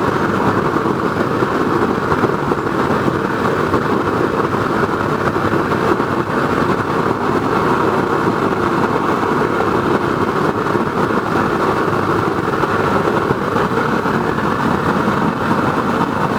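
Waste oil burner made from a car muffler, fed forced air by a blower, burning hard with a loud, steady noise of flame and rushing air.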